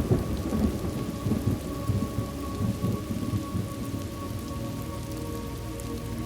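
Thunderstorm: a peal of thunder rumbling and rolling in low swells over steady rain, dying away after about four seconds and leaving rain falling on a surface.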